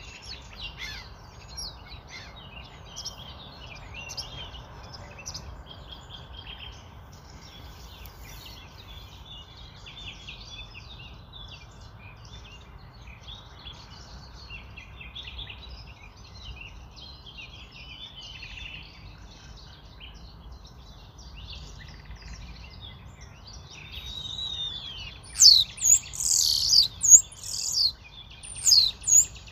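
Many birds chirping and calling together, over a faint low steady rumble. Several much louder, sharp calls come near the end.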